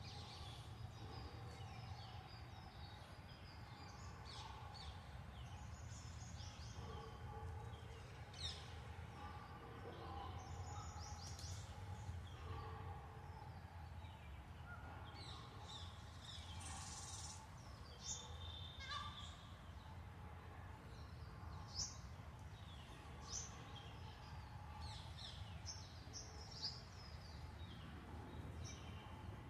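Many birds chirping and calling throughout, with short, sharper calls standing out now and then, over a steady low background rumble.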